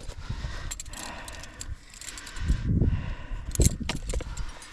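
Metal climbing hardware clinking and jangling in a few sharp bursts, strongest about three and a half seconds in, with low rumbles of handling or wind on the microphone.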